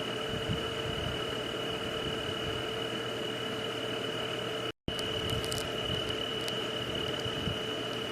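Steady night ambience of insects: a constant high chirring over an even hiss. It cuts out completely for a split second a little past halfway.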